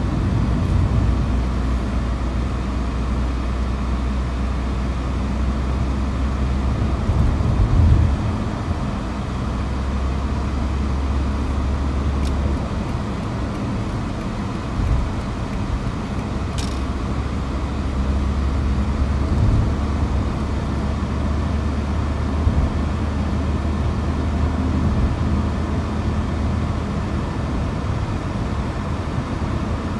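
Steady low hum of a moving car's engine and tyres, heard from inside the car.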